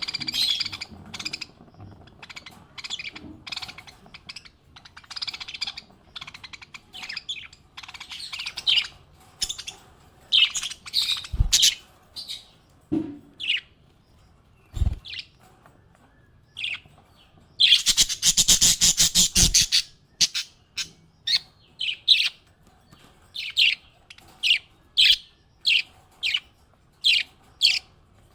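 Small pet parrots chirping in short, high calls, with a two-second burst of rapid, loud chatter around the middle and two low thumps before it. Later, one bird gives sharp chirps at a steady pace of about one a second.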